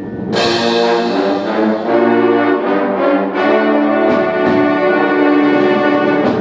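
High school symphonic band playing. The full band comes in suddenly and loudly about a third of a second in, after a quieter passage, then holds heavy brass chords that shift, with a few accented strikes.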